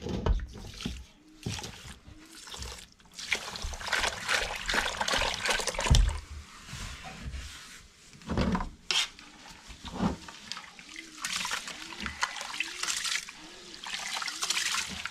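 Water trickling and splashing in two long stretches, broken by a few dull knocks.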